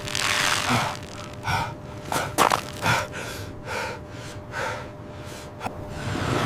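A person breathing hard with rhythmic gasps, a short noisy breath about every half second to second, the heavy breathing of someone straining at physical work.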